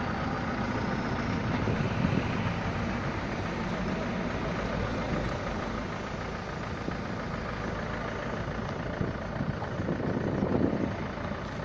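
Steady vehicle engine and road noise, with a few light knocks near the end.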